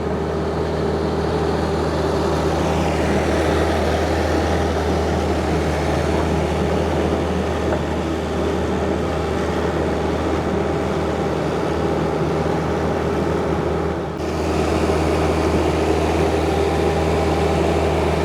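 John Deere 50ZTS mini excavator's diesel engine running steadily as the machine is operated, with a brief dip in level about fourteen seconds in.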